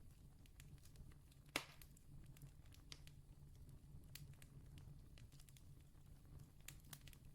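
Campfire crackling faintly: scattered small pops and ticks of burning wood, with one louder pop about a second and a half in, over a low steady hum.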